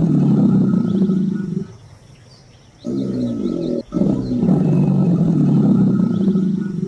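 Crocodile growling: long, low, rumbling growls, repeated with a pause about two seconds in.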